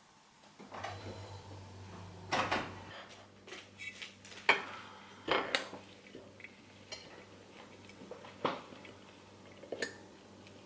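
Dishes and cutlery clinking and knocking, a string of separate sharp clinks with the loudest about four and a half seconds in, over a low steady hum.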